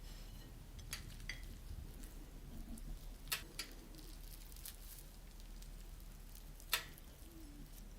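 A few sharp, separate clicks and taps of kitchen utensils and dishes over a faint steady background, the loudest near the end.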